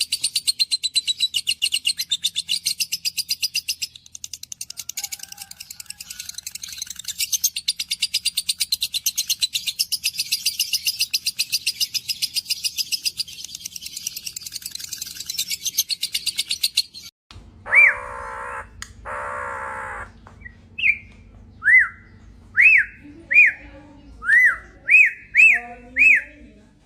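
Birds calling: for about 17 seconds a fast, unbroken chatter of rapid high chirps, then after a short break two harsh squawks and a run of short whistled notes that rise and fall, coming faster toward the end.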